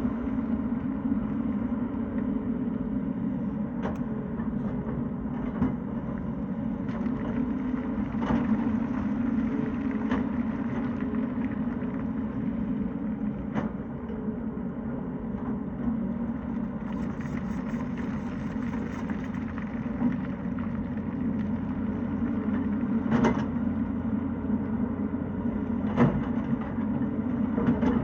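Tata Hitachi excavator's diesel engine running steadily at work, with a few sharp knocks now and then.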